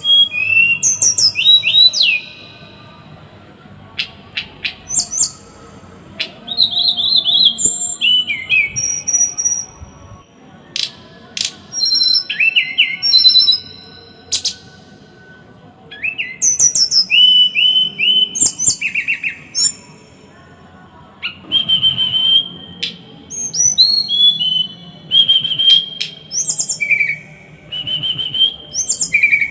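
Small songbird singing loud bursts of rapid, harsh chirps and whistles, each burst lasting one to several seconds with short pauses between: the dense 'tembakan' (rapid-fire) phrasing that bird keepers play to tutor caged songbirds.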